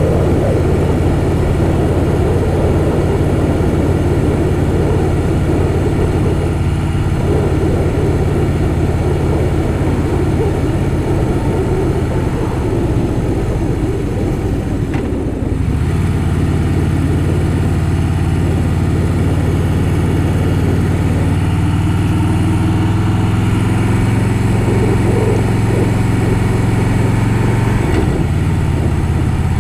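Harley-Davidson Softail Fat Boy's V-twin engine running under way, with wind noise on the microphone. About halfway through the engine note dips briefly, then its pitch climbs slowly, with another short dip near the end.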